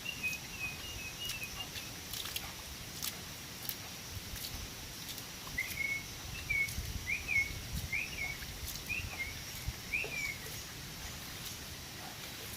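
Sooty-headed bulbul (kutilang) giving short chirping calls, a few faint ones at first, then a run of about six clear notes roughly half a second apart in the middle, with scattered faint clicks.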